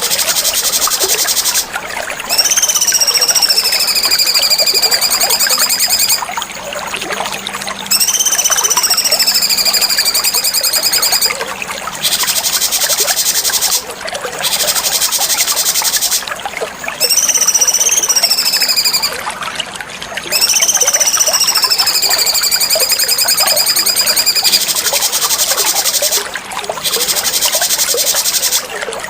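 Cucak cungkok song: four long whistled calls, each rising briefly and then sliding down and levelling off, over a loud high hiss that cuts in and out every few seconds.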